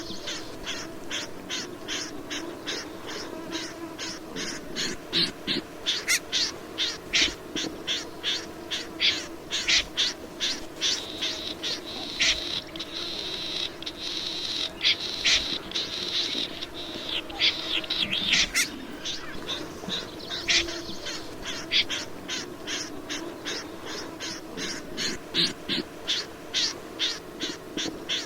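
Rẽ run bird calling: a fast, rhythmic series of short, sharp high notes, about three a second, kept up throughout. The notes bunch denser and louder around the middle. A steady low hum runs underneath.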